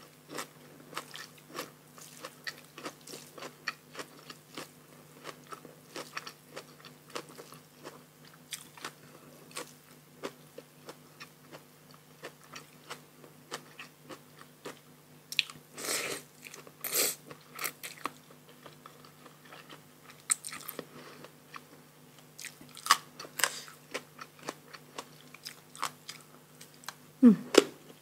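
Close-up mouth sounds of someone eating a spicy Thai salad with noodles, raw shrimp and fresh raw vegetables: steady biting, crunching and wet chewing clicks, with a few louder crunches around the middle and again later on.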